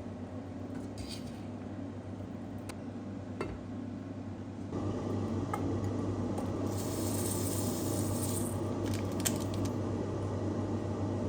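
Home kitchen cooking sounds: light clicks and clinks of utensils and dishes over a steady hum that steps up in level about a third of the way in, with a hiss lasting about two seconds in the middle.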